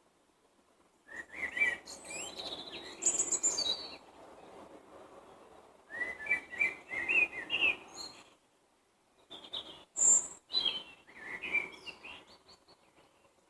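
Songbird singing three separate phrases of warbled, gliding notes a few seconds apart, each phrase ending in higher twittering.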